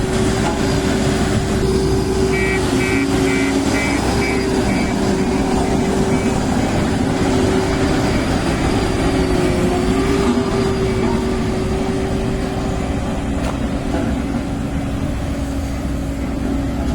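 JCB Vibromax soil compactor's diesel engine running steadily, with a constant hum and low rumble. A few seconds in comes a run of short high beeps, about three a second, for a couple of seconds.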